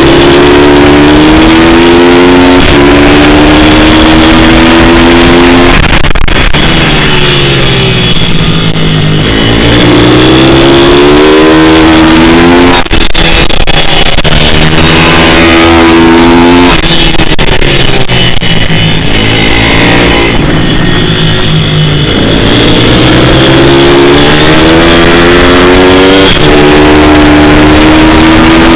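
Pit bike's single-cylinder four-stroke engine running hard, its pitch rising as it accelerates and falling as it slows, over and over.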